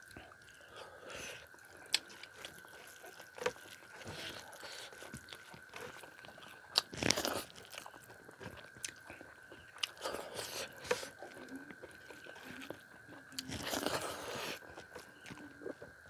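Close-miked eating sounds: wet chewing, smacking and biting as handfuls of rice and curry are eaten with the fingers, in scattered clicks and short bursts. A faint steady high whine runs underneath.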